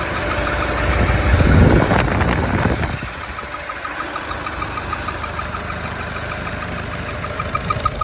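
Opel Meriva B engine running at idle with a rapid, even clacking of about five ticks a second; the engine gets louder for a moment between about one and three seconds in. The clacking is the rattle whose cause the owner is asking about.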